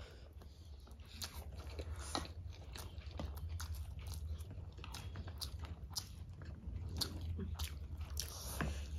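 Close-miked eating sounds: two people chewing mouthfuls of chow mein noodles, with many short sharp mouth clicks at an uneven pace.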